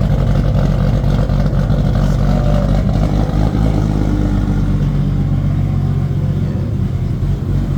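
Nissan Skyline R34's engine idling steadily with a deep, aggressive exhaust note. It is a freshly built engine not yet bedded in.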